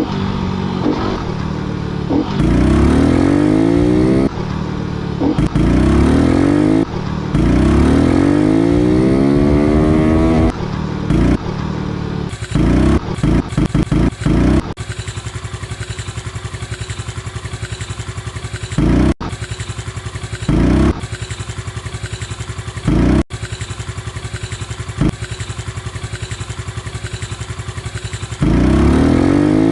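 Honda Pop 110's small single-cylinder four-stroke engine under way, its pitch climbing again and again as it accelerates through the gears. It then runs steadily at idle for about thirteen seconds, with three short throttle blips, before pulling away with rising revs near the end.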